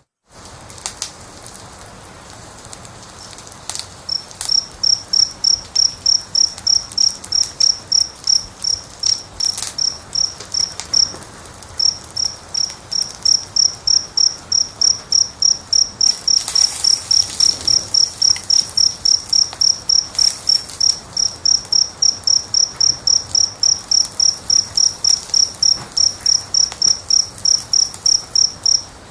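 A cricket chirping steadily at about three high chirps a second, starting a few seconds in and pausing briefly partway through, over the soft crackle and hiss of a wood fire. The sound cuts out for an instant at the very start.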